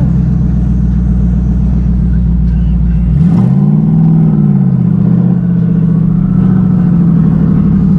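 Car engine running with a steady low drone, then from about three seconds in the revs rise and fall in a couple of swells as the car is manoeuvred into a parking spot.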